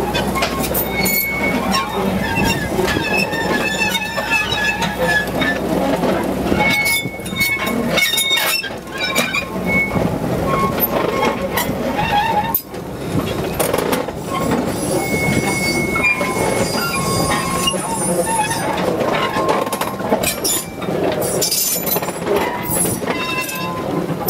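Freight train wagons rolling along the rails, with repeated clanks and knocks and brief high-pitched wheel squeals coming and going.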